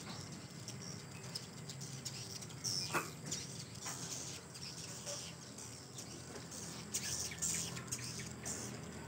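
Swiftlets twittering: a steady scatter of short, high chirps and clicks, with one louder chirp about three seconds in.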